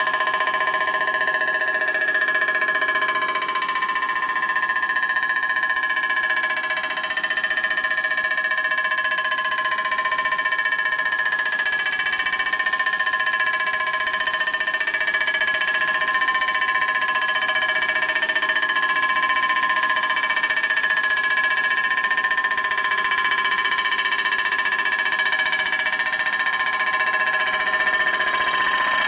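A metal-cutting machine tool taking a steady cut across a Harley primary cover to flatten its face. It gives a loud ringing whine made of several steady tones, with fainter tones that slowly fall in pitch.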